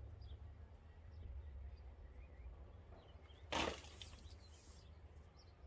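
Birds chirping faintly over a steady low rumble, with one short, loud rustling noise about three and a half seconds in.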